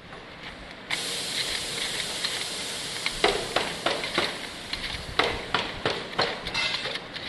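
Factory machinery making radiator cores: a steady hiss like escaping compressed air starts about a second in, with irregular sharp mechanical clacks joining from about three seconds in.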